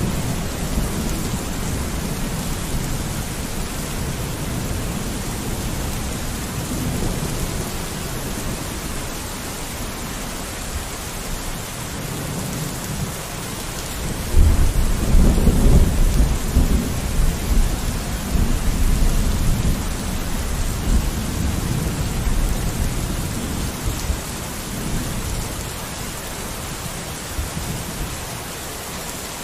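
Steady rain on a window, with a low rumble of thunder swelling about halfway through and fading away over several seconds.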